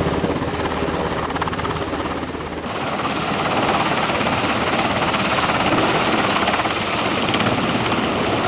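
MH-60R Seahawk helicopter rotor and engine noise, continuous and loud. About two and a half seconds in, the sound changes abruptly and becomes brighter and fuller.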